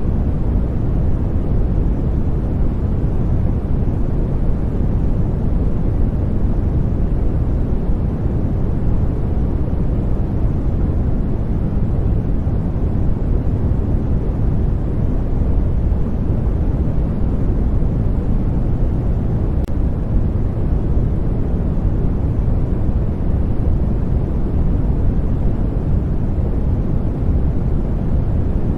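Steady, unchanging white noise for baby sleep: a deep, even rush that is heaviest in the low end, with no rhythm or pitch.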